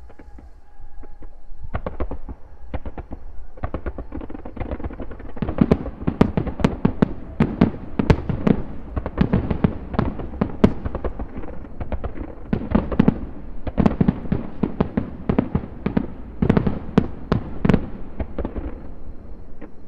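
Aerial fireworks display: a fast, uneven barrage of shell bursts and pops, sparse at first and building into a dense run of loud bangs from about five seconds in. It thins out just before the end.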